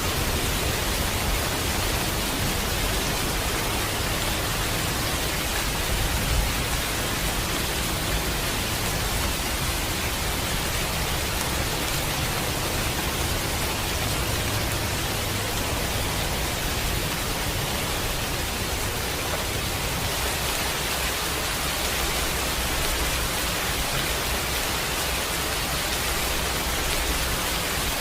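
Steady heavy rain, an even hiss without a break, with a low rumble of distant thunder swelling and fading now and then underneath.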